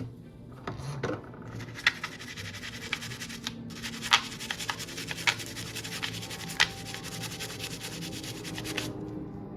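Steady rubbing and scratching with a few sharp light clicks scattered through it.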